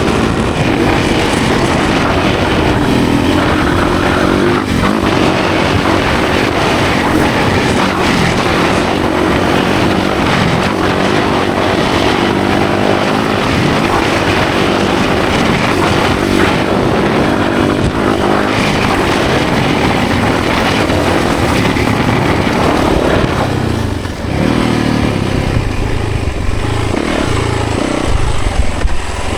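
Yamaha 450 four-stroke single-cylinder dirt bike engine under riding load, its pitch rising and falling repeatedly with the throttle and gear changes, with a brief drop in level about 24 seconds in.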